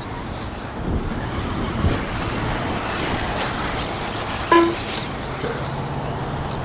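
Electric RC buggies running laps on the track: a steady noisy rush, with a brief voice call about four and a half seconds in and a low steady hum in the second half.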